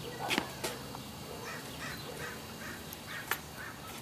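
A bird calling several times in quick succession in the background, with a few sharp clicks, the loudest a little past three seconds in.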